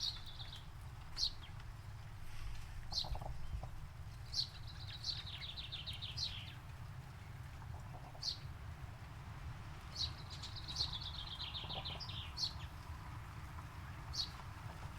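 Songbirds singing: short sharp high chirps every second or two, and twice a rapid trilled phrase of about two seconds, over a low steady rumble.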